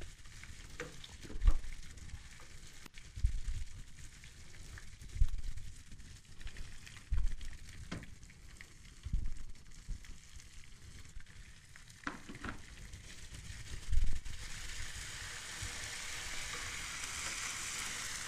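Chopped garlic and mint frying in ghee in a pan, sizzling, stirred with a wooden spoon that gives dull knocks every couple of seconds. About fourteen seconds in the sizzle grows louder and steadier.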